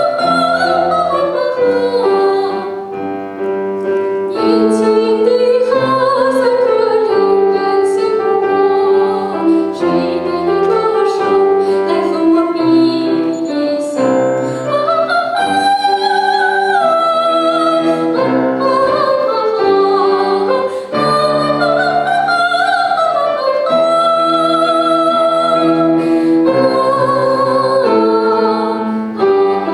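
Solo classical singing in an operatic style, with piano accompaniment. The voice sustains long phrases that rise and fall.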